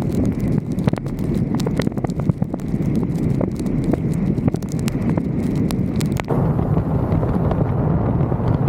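Wind buffeting and vehicle rumble on a car-roof-mounted camera's microphone, with many rapid sharp taps through it. About six seconds in the taps thin out and a steadier hiss takes over.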